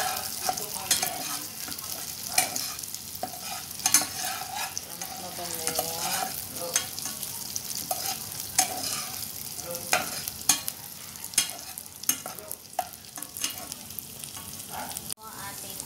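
Diced pork and garlic cloves sizzling in hot oil while a spatula stirs them, with frequent irregular knocks and scrapes of the spatula against the pan.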